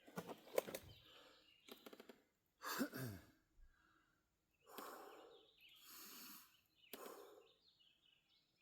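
A man breathing hard from exertion: several heavy sighing exhales and a groan that falls in pitch about three seconds in, with a few clicks and rattles near the start.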